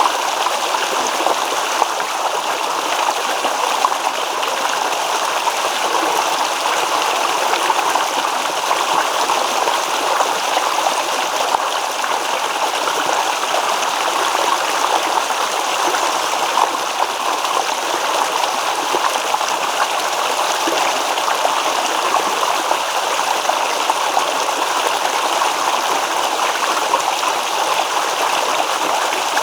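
A shallow stream babbling and gurgling over stones, a steady, even rush of water with no let-up.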